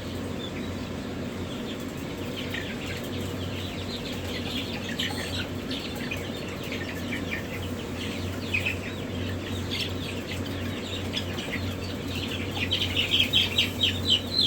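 Many chicks peeping: short, high, falling cheeps that come faster and louder near the end, over a steady low hum.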